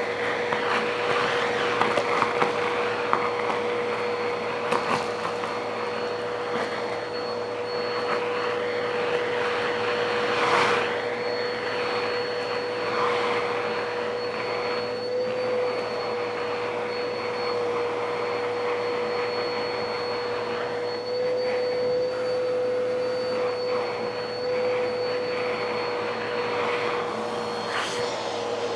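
A motor running steadily with a dense rushing-air noise and a constant whine, with a few scattered clicks.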